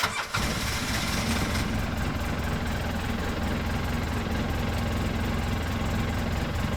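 Polaris Ranger XP engine running steadily at idle, coming in abruptly and holding for about seven seconds. It runs now that the loose terminal on the brake pressure sensor bypass jumper has been pushed in, the loose connection having been the cause of the no-crank.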